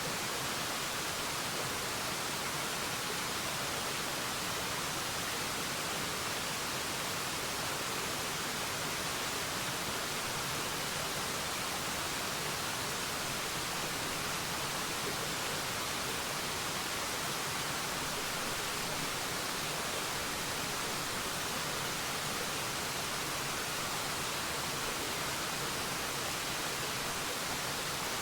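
Waterfall rushing in a steady, unbroken hiss, strongest in the high end and thin in the low end.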